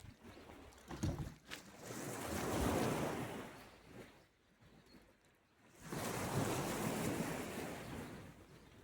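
Sea waves breaking on the shore, two swells of surf rising and ebbing away.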